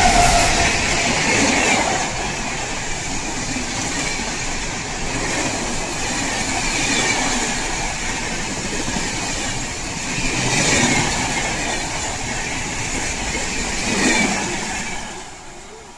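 Express train passing close by at speed: a loud, steady rush of wheels on the rails. The tail of its horn dies away just at the start, and the noise falls away quickly near the end as the last coaches go by.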